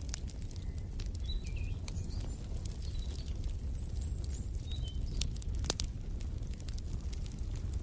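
Wood fire in a fireplace crackling, with scattered sharp pops over a steady low rumble. A few faint bird chirps come in the first half.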